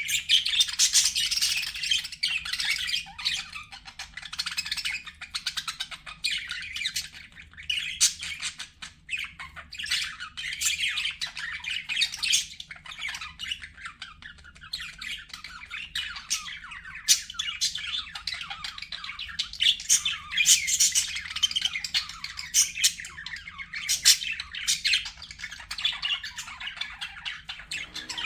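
Budgerigars chattering continuously, a dense mix of warbling chirps and sharp squawks from several birds.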